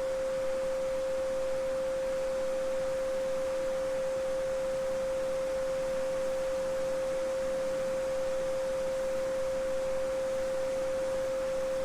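A steady, pure 528 Hz sine tone, held unchanged, with the faint even rush of a babbling brook beneath it.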